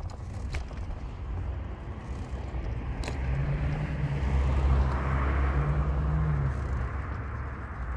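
Car driving on the road: a steady low engine and road rumble that swells to a louder engine hum with tyre noise around the middle and eases off again, with a couple of short clicks in the first few seconds.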